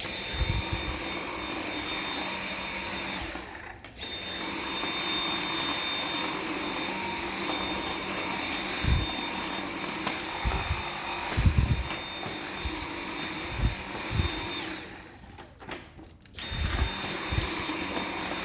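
Dyson V7 Motorhead cordless stick vacuum running, a steady motor whine with a high-pitched tone, picking up crumbs from the floor. The motor cuts out briefly twice and starts again, and a few low thumps come partway through.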